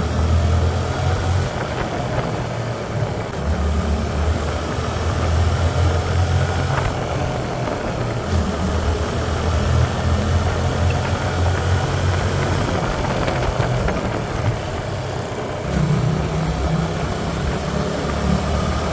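Hyosung Aquila 125's small V-twin engine running under way, its low note shifting up and down every few seconds as the rider changes speed.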